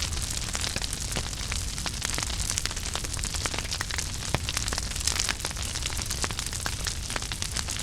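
Wood fire burning in a fireplace: a steady hiss and low rumble with many irregular sharp crackles and pops.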